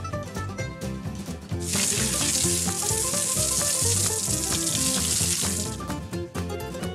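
Water running from a tap into a sink for about four seconds, starting and stopping abruptly, over background music.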